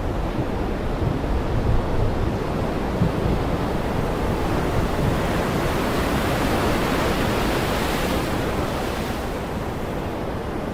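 Heavy rain pouring steadily in a dense, even hiss, swelling a little in the middle.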